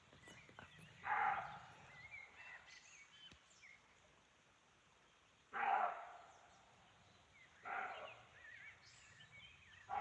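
Roe deer barking: three short, loud barks, the first two about four and a half seconds apart and the third two seconds later. The uploader takes them for a territorial or mating call.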